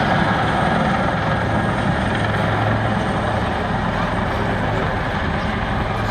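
Two AW159 Wildcat twin-turboshaft helicopters flying a formation display, their rotors and engines making a steady rushing noise over a constant low hum.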